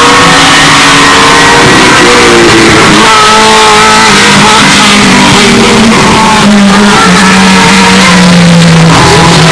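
Historic Formula 1 race car engine revving, boosted until it distorts and clips throughout, its pitch stepping up and down.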